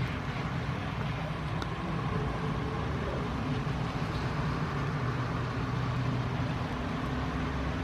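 Boeing 737-800's CFM56-7B jet engines running at low taxi power, heard as a steady low engine noise with a faint hum.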